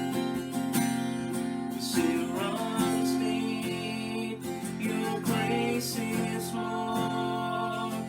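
Worship music led by a strummed acoustic guitar, playing steadily.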